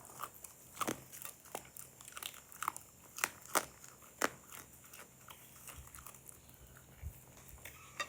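Chewing and crunching of fried fish: irregular crisp crunches, several a second in the first half, thinning out after about four seconds.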